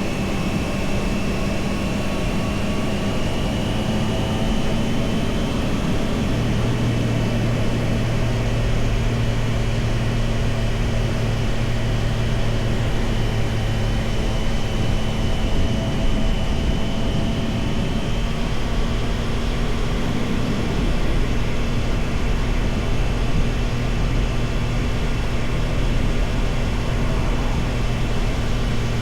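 Triumph Tiger Sport 660's three-cylinder engine running while the motorcycle is ridden at a steady pace, its note holding nearly even with a small shift about six seconds in, over a steady rushing noise.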